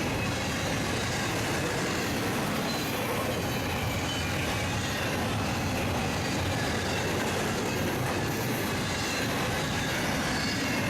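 Freight train cars rolling past, a steady rumble and rush of steel wheels on the rails.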